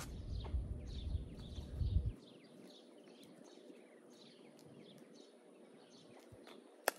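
Small birds chirping outdoors, a steady run of short falling calls, over a low rumble that drops away about two seconds in. A single sharp click comes near the end.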